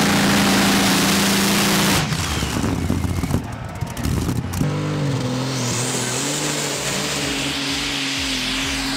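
Pulling tractor engines running hard at high revs, a steady held note that changes abruptly about two seconds in to a rougher, lower run, then again near the middle to another steady note.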